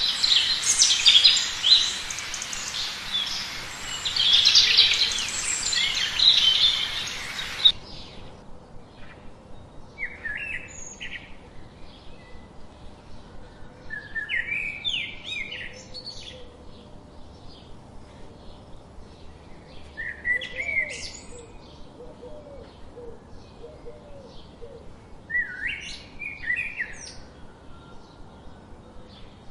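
Birds chirping. A dense, loud run of high chirps cuts off suddenly after about eight seconds. Short chirping phrases follow every few seconds over a quieter background.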